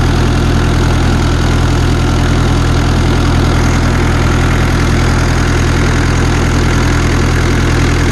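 1984 Ford Ranger's Perkins diesel engine idling steadily.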